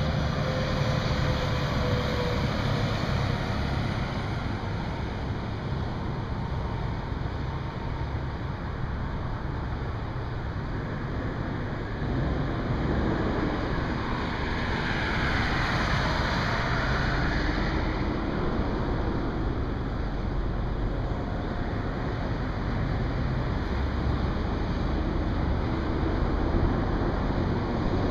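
Steady highway traffic noise, with one vehicle swelling past about halfway through.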